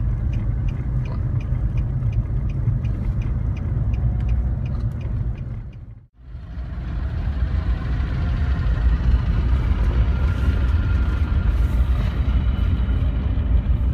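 Small generator engine on a homemade three-wheeled motorcycle running with a steady low rumble and a light, regular ticking. About six seconds in the sound cuts out briefly, then the engine noise resumes.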